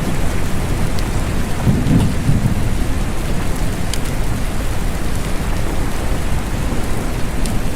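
Steady rain with a low rumble of thunder swelling about two seconds in, and a few sharp drip ticks.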